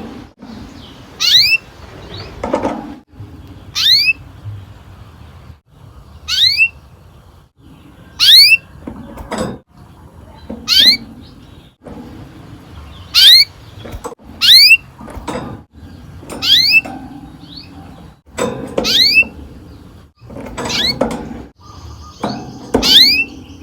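Canary giving short chirping calls about once every two seconds, about eleven in all. Each call is a few quick notes sweeping downward in pitch.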